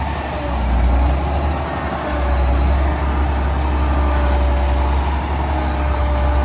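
Heavy diesel engine of earthmoving machinery running, a deep rumble that swells and eases every second or two.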